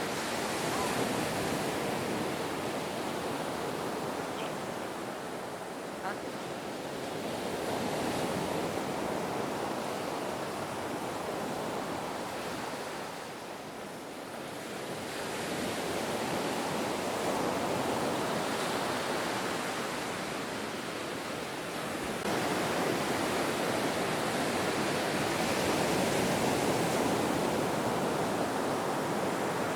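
Ocean surf: a continuous wash of breaking waves, swelling and easing every several seconds, with a lull about halfway through and a louder stretch near the end.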